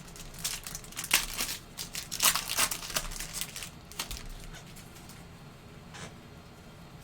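Foil trading-card pack wrapper being torn open and crinkled: a run of crackling rustles for about three seconds, then quieter handling with a single small click near the end.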